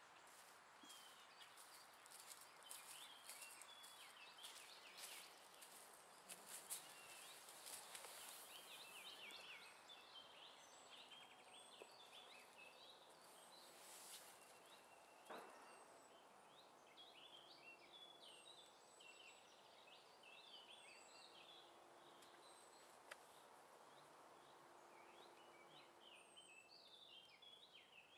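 Faint birdsong in woodland: many short chirps and twitters from several small birds, with an occasional high falling whistle, over a quiet outdoor hiss.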